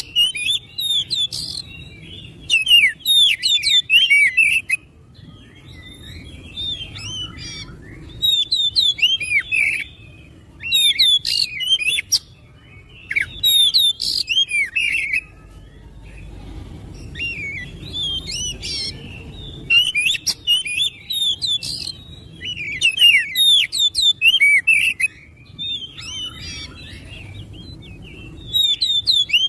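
Oriental magpie-robin (kacer) singing: loud bursts of rapid, varied whistled notes, each phrase lasting a few seconds, with short pauses between phrases.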